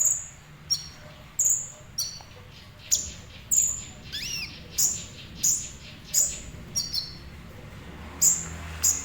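Sunbird (kolibri ninja) calling with a series of short, high, sharp chirps, each dropping slightly in pitch, about one every half second to second. About four seconds in it gives one longer call that slides down in pitch.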